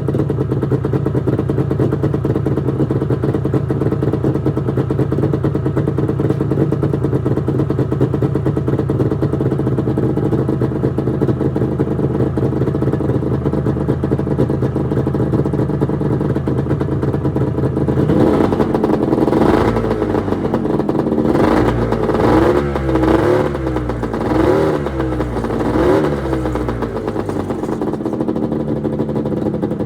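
1996 Arctic Cat ZRT 600 snowmobile's three-cylinder two-stroke engine idling steadily on its freshly rebuilt fuel pump, then revved in a quick series of rising and falling blips for several seconds about two-thirds of the way through, before settling back to idle.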